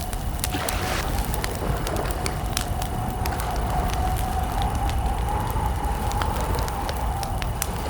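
Wood campfire crackling, with many irregular sharp pops over a low rumble, and a steady drone running underneath.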